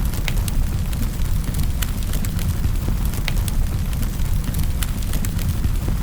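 Wood fire crackling in a fireplace: a steady low rumble of flames with sharp irregular pops and snaps of burning logs, a few each second.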